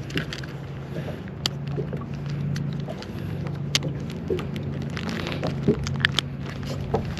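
Clicks, taps and light knocks from handling a freshly caught crappie and measuring gear in a small boat, scattered irregularly over a steady low hum.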